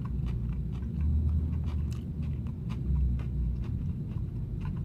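Close-up chewing and biting of stewed chicken: wet mouth clicks and smacks, over a steady low rumble.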